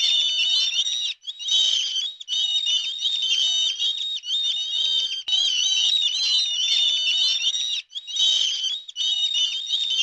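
A group of chicks peeping continuously, many high, shrill calls overlapping, with brief breaks about a second in and again near the end.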